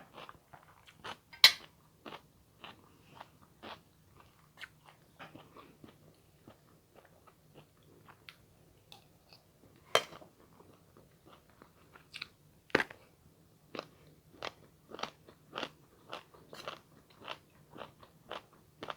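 A person chewing and biting crunchy food close to the microphone: irregular crunches, with a few sharper bites about a second and a half in, at about ten seconds and near thirteen seconds.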